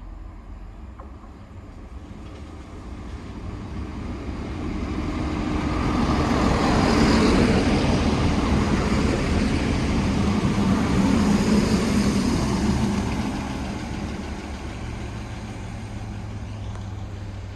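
A train passing by: the running noise swells over several seconds, stays loud for about six seconds, then fades away.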